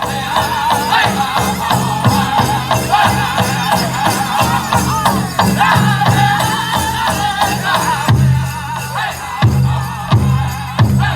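Powwow drum group singing a chicken dance song in high, wavering voices over a steady big-drum beat, with jingling and rattling from the dancers' bells. The drum grows louder about eight seconds in.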